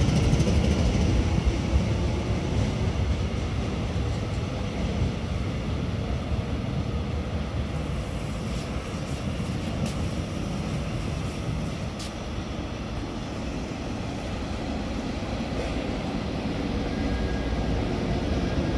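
Low, steady rumble of trains at a railway station platform. It fades over the first half as a train moves off, and grows again near the end as a locomotive-hauled passenger train approaches.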